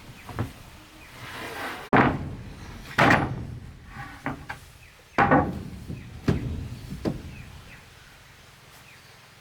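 Wooden planks knocking and thudding against each other: about seven irregular heavy knocks, the loudest about two, three and five seconds in.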